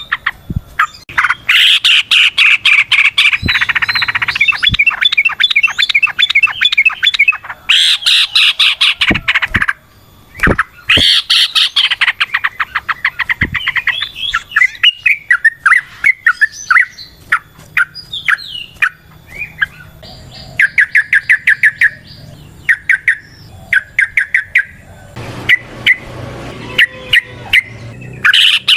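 Yellow-vented bulbul (trucukan) singing loudly: phrases of rapid, tightly repeated notes, with short pauses between phrases and sparser notes in the later part.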